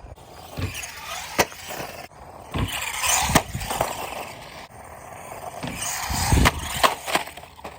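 Redcat Volcano 16 RC truck running over rough ground in bursts, with its tyres and chassis rattling, and several sharp knocks, including two close together near the end.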